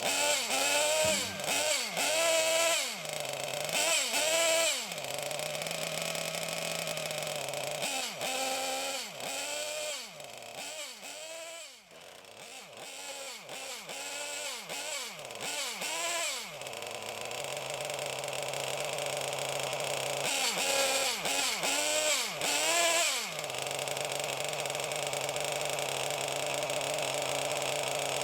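Small SH-1/8 model gasoline engine running on its break-in: the throttle is blipped repeatedly so the engine revs up and drops back in quick succession, with spells of steady idle in between, and it settles to steady running for the last few seconds.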